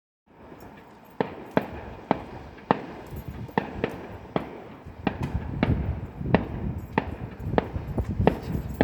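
Fireworks going off: a rapid, irregular run of sharp bangs, roughly two a second, over a continuous low rumble.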